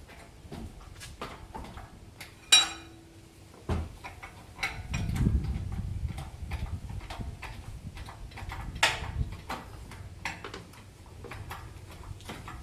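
Metal tools and engine parts clinking and knocking as an engine is worked loose from a car's engine bay. One loud, ringing metal clank comes about two and a half seconds in, and a low rumble of handling runs through the middle.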